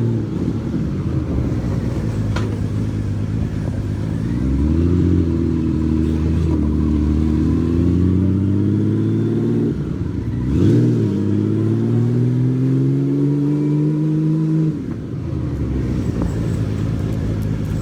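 Honda Valkyrie motorcycle engine pulling away and accelerating. Its pitch climbs from about four seconds in, dips briefly about ten seconds in, climbs again, and falls away near fifteen seconds.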